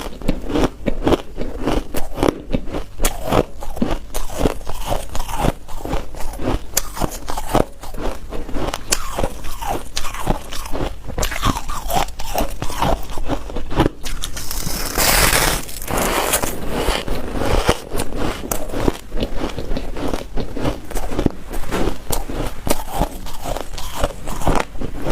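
A person biting and chewing hard white ice cubes close up: a dense run of crunches and cracks, several a second, with a louder, harsher crunch about fifteen seconds in.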